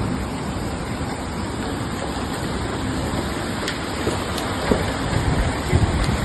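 Steady rushing of floodwater, an unbroken noisy roar that grows a little louder and more uneven in the second half.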